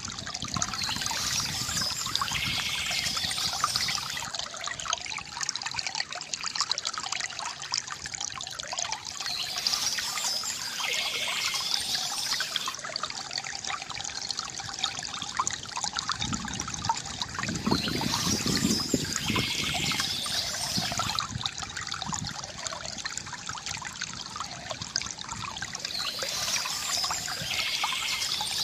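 Water trickling and gurgling from a bamboo fountain spout into its basin, a steady splashing flow with brighter swells that come back about every eight or nine seconds.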